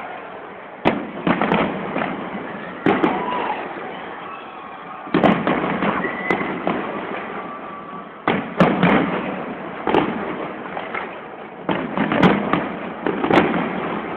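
Display fireworks bursting overhead: about ten sharp bangs at irregular intervals, some in quick pairs, over a steady din.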